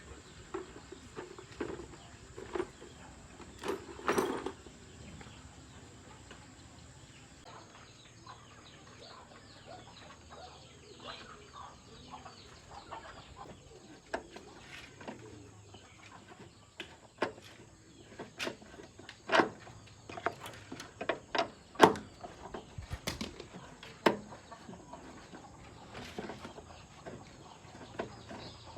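Irregular sharp clicks and knocks, scattered and unevenly spaced, the loudest about three-quarters of the way through.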